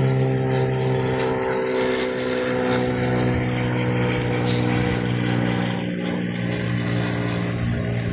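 An engine running steadily: a low hum with a clear pitch and many overtones, holding even throughout with a slight sag in pitch partway through.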